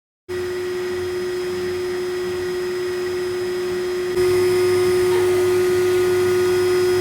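Automatic washing machine's motor running with a steady hum and a held whining tone, starting abruptly just after the start and stepping up louder about four seconds in.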